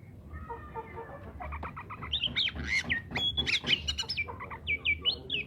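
Oriental magpie-robin (kacer) in full song: a fast, varied run of whistled notes, slurs and sharp sweeps, starting about a second and a half in.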